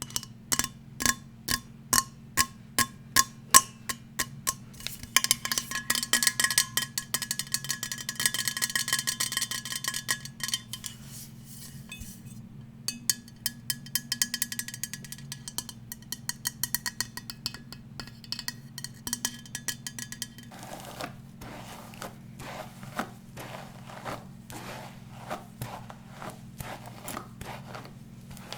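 Fast tapping on hard objects. The first half rings with clear tones, first at a few taps a second, then in a very fast, dense flurry. It turns to lighter taps, and near the end to duller, scratchy strokes. A low steady hum runs underneath.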